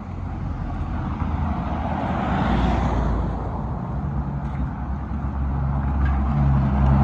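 Road traffic: a vehicle passes about halfway through, then a low engine hum builds and grows louder near the end.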